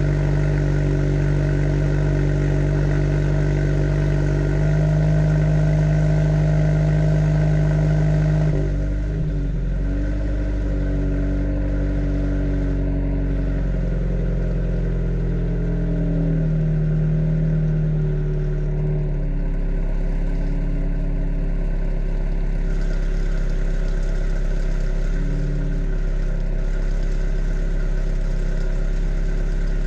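Flat-four boxer engine of a Subaru BRZ / Toyota 86 idling steadily through a Corsa cat-back exhaust. The idle pitch shifts slightly a few times, stepping down and settling about a third of the way in.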